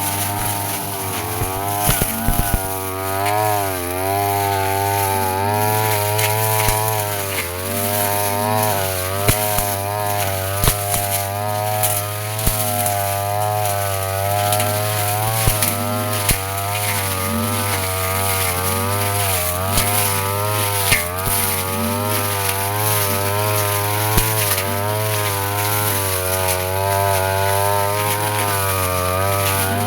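Brush cutter engine running at high revs, its pitch dipping and recovering again and again as the spinning blade cuts through grass, with sharp ticks now and then.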